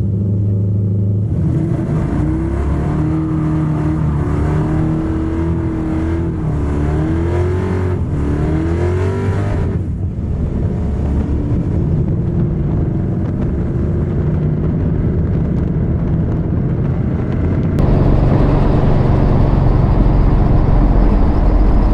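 Chevy C10 drag truck's engine running as it drives, with a whine that rises and falls in pitch through the first half.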